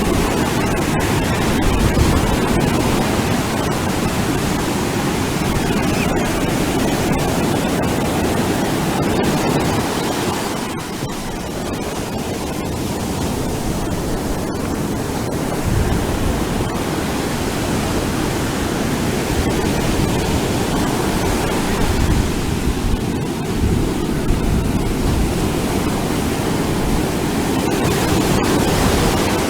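Ocean surf washing onto a beach in a continuous rush of breaking waves, easing briefly about a third of the way through.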